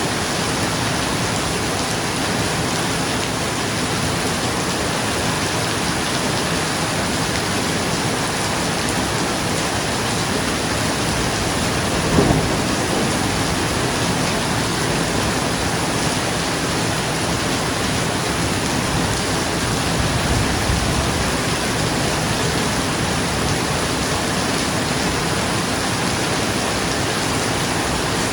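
Steady heavy rain falling on a roof, with a short burst of thunder about twelve seconds in and a fainter rumble around twenty seconds in.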